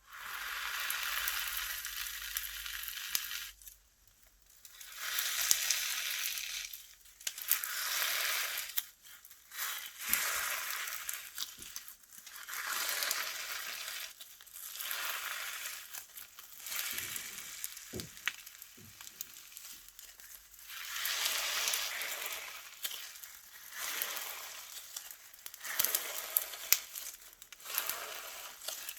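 Slime being squeezed and pressed by hand. It crackles and crunches in repeated swells of a second or two each, with small pops and clicks.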